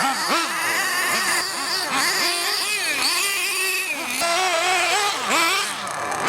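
Small nitro RC engines revving, their high buzzing pitch climbing and dropping again and again as the throttle is worked.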